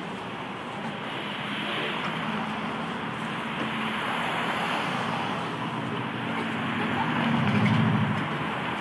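Streetcar running along its track: a steady rolling noise with a low hum that swells louder near the end.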